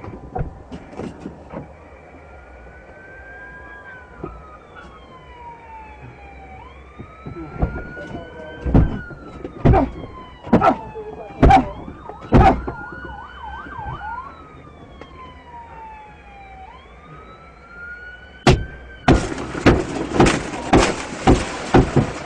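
Police car siren wailing in slow rising and falling sweeps, switching briefly to a fast warble near the middle. Sharp loud bangs break in several times, with a dense run of them near the end.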